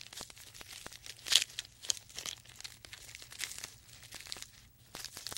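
Dry grass and brush rustling and crackling, an irregular run of small crunches with a few louder ones.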